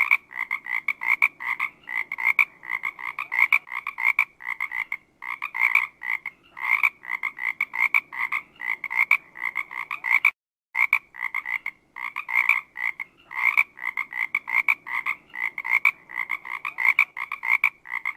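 Frog croaking in rapid short calls, several a second, with a brief silent break about ten seconds in.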